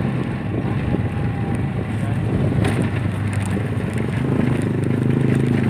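Single-cylinder four-stroke engine of a Honda Supra motorcycle pulling a loaded becak, running steadily on the move with road rumble, and a short clatter about two and a half seconds in.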